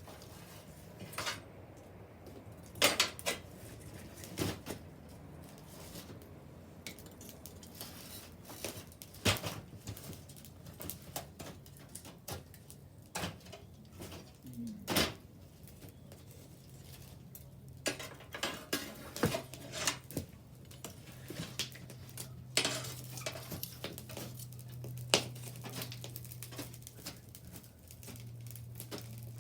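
Wood bonfire crackling and popping: irregular sharp snaps, a few of them loud, over a low steady hum that grows stronger about halfway through.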